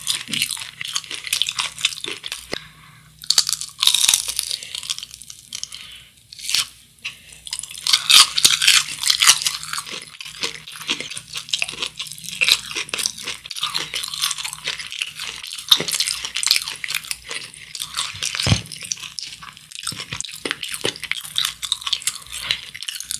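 Close-up crunching and chewing of a breaded Kodano long cheese stick, its crisp crust crackling between the teeth in irregular bites. There is a short lull about five seconds in and a single dull thump about three-quarters of the way through.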